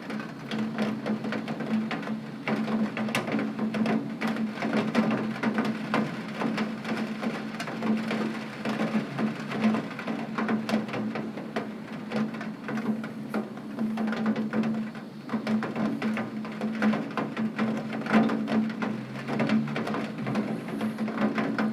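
Heavy rain beating on a window pane: a dense, irregular patter of drops striking the glass, over a steady low hum.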